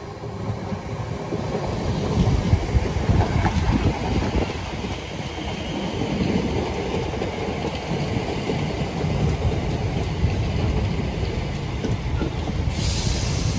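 Electric multiple unit running along the platform: a steady heavy rumble of wheels on rail with clatter over the joints, swelling as it draws alongside, with a faint high wheel squeal midway. Near the end a sudden hiss starts.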